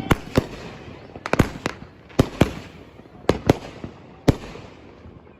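Consumer fireworks going off: about ten sharp bangs, several in quick pairs, over a lingering rumble and crackle that thins out near the end.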